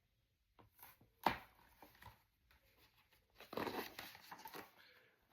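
Paper page of a picture book being turned: a sharp tap, then a soft papery rustle about three and a half seconds in.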